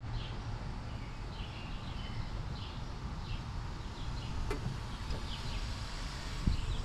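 Small birds chirping repeatedly over a steady low rumble, with a sharp click about four and a half seconds in and a low thump near the end.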